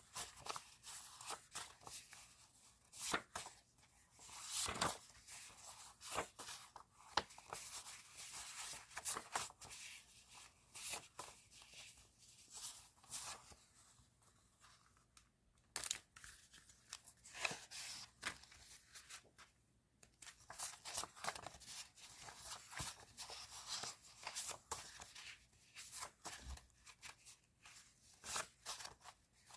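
Close-up crinkling and tearing of paper and plastic stationery packaging as it is handled and opened, in a string of short scratchy rustles with brief pauses.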